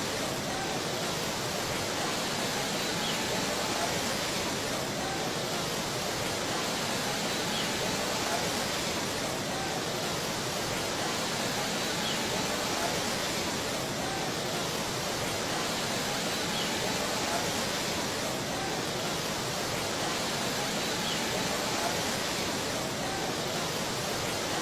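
Steady rushing noise of fast-flowing water, even and unbroken throughout.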